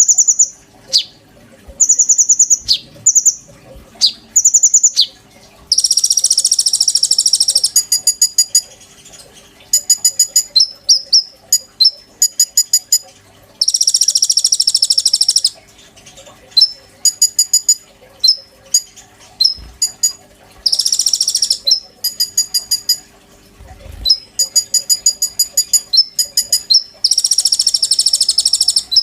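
A konin songbird in vigorous song. Fast, high ticking trills and short whistles alternate with harsh, buzzy rasps of about two seconds each, four of them.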